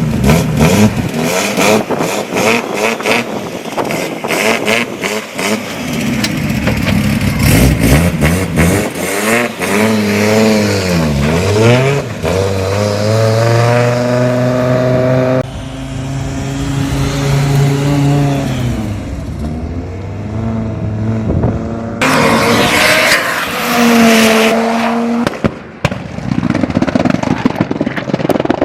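Audi car engines revving and accelerating hard, the pitch repeatedly rising and falling, in several short clips cut together.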